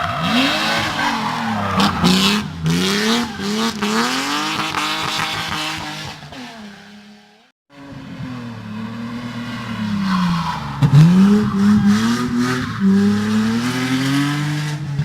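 Race car engine revving hard, its pitch climbing and dropping as it shifts and lifts, with tyre squeal and a few sharp cracks about two seconds in. It fades away and cuts off about seven and a half seconds in, then another burst of hard engine revving rises.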